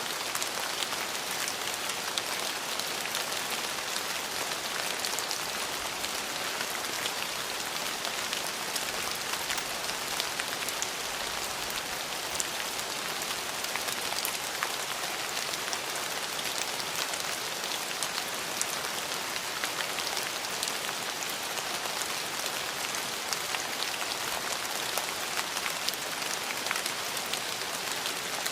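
Steady rain falling, an even hiss of rain with many small drop taps scattered through it.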